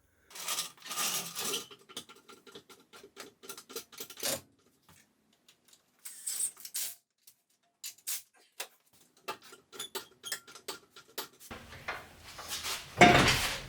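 Scattered small metal clicks, knocks and scrapes as an engine hanging on a hoist is shifted and worked down into the engine bay, with a louder burst of noise near the end.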